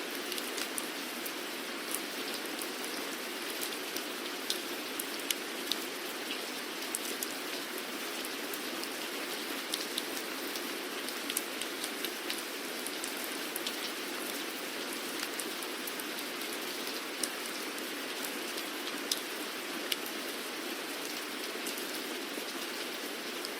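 Steady rain falling, a continuous hiss with scattered sharp drips and ticks of individual drops striking a surface.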